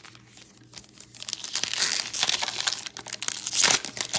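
Foil trading-card pack wrapper being torn open and crinkled, a dense crackling that starts about a second in and is loudest near the end.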